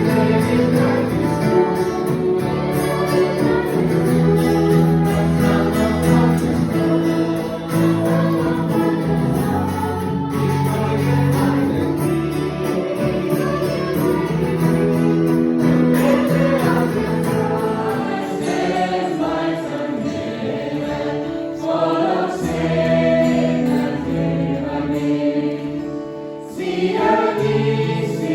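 Music: a group of voices singing a worship song with instrumental backing.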